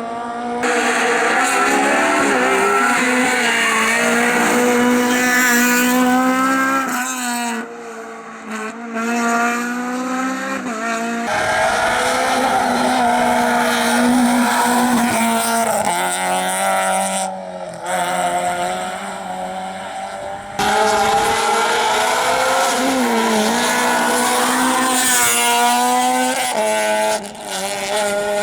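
Rally cars driven flat out through a special stage, engines revving hard and their pitch rising and dropping through gear changes. Several separate passes follow one another with abrupt cuts between them.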